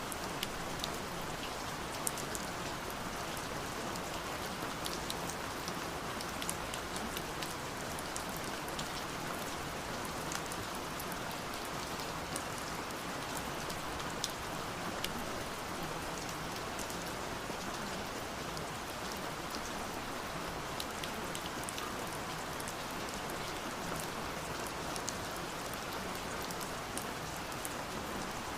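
Steady rain falling, an even hiss with many single drops ticking sharply on a surface.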